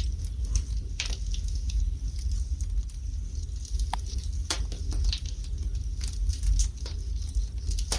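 Wood fire burning in a fireplace: irregular crackles and pops from the burning logs over a steady low rumble.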